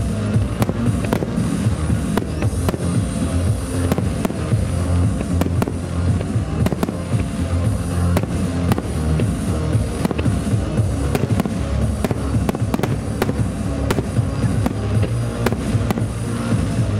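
Fireworks shells bursting in a rapid, uneven barrage, many sharp reports a second, over loud music played through the show's loudspeakers.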